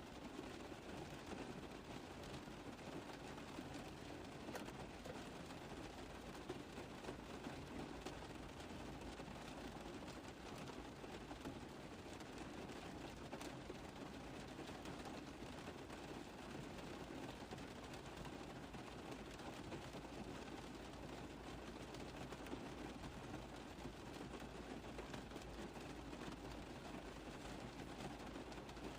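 Rain falling on a car roof: a steady, dense tapping of many drops on the metal.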